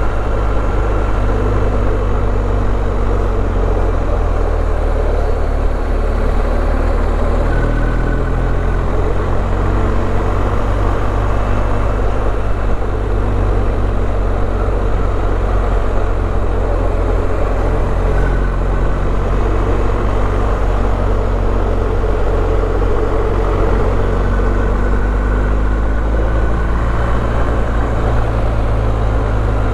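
A BMW R1250GS boxer-twin engine running at road speed, with steady wind and road noise, while the motorcycle is ridden. The engine note shifts briefly a few times.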